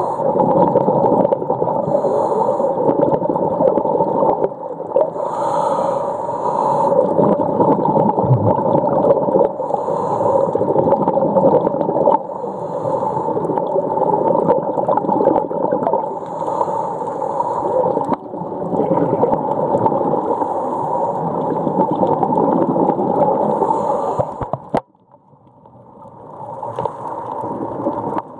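Underwater sound picked up by a snorkeller's camera: water gurgling and rushing over a steady drone. It drops away sharply about 25 seconds in, then builds back up.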